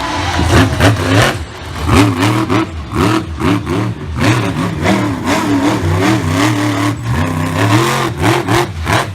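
Monster truck engine revved hard over and over, its pitch rising and falling in quick surges, with sharp pops and cracks mixed in.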